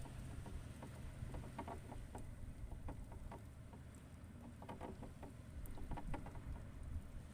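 Low rumble of wind on the microphone, with scattered faint irregular clicks and taps.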